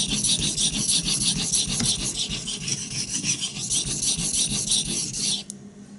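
CPM-3V steel knife blade stroked back and forth on a whetstone in a quick run of scraping strokes, working the belly of a convex edge to raise a burr. The strokes stop suddenly about five and a half seconds in.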